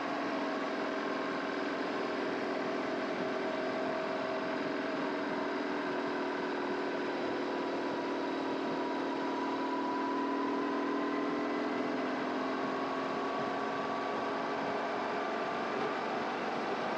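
2002 BMW R1150GS Adventure's boxer-twin engine running at steady cruising throttle while riding. Its note eases slightly lower over the first half and then rises gently again, over a steady rush of wind noise.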